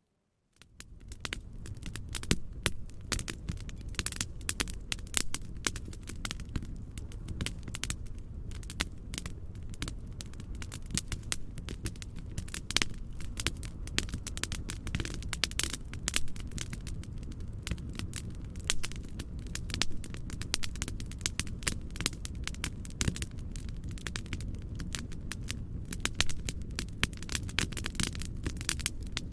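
Wood fire in a fireplace crackling, with many sharp pops and snaps over a steady low rumbling noise. The sound briefly cuts out right at the start and fades back in over the first second.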